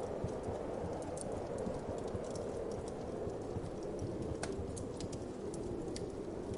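Wood fire in a fireplace crackling, with irregular sharp snaps and pops, a few standing out clearly, over a steady low whoosh of winter wind.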